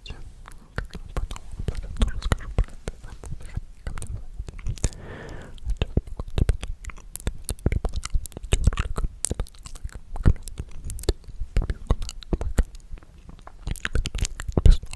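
Close-miked ASMR mouth sounds: many quick wet clicks and smacks, with a brief breathy whisper about five seconds in.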